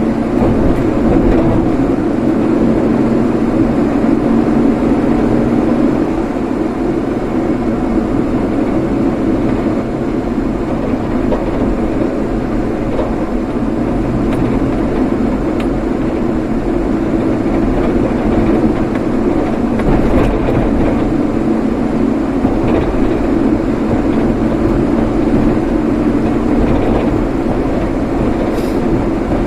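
Steady engine and road noise of a vehicle being driven, with a low hum that stops about six seconds in.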